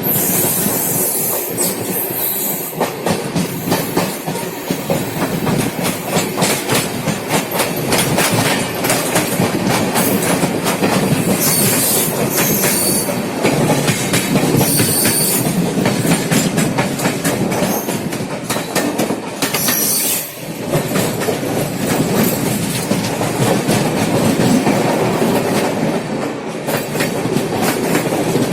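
Express passenger train running, heard from inside the coach: steady rumbling running noise with the wheels clicking and clattering over the rail joints.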